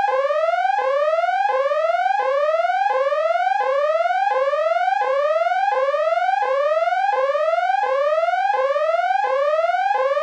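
Repeating electronic alarm tone: an upward sweep about every 0.7 seconds, over and over, the kind of warning a drone's controller app sounds for a strong-wind warning or a lost signal.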